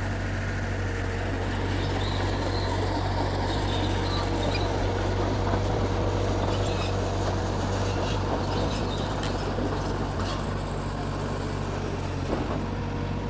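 Diesel engine of a Mitsubishi bulldozer running steadily, with a few light clanks scattered through.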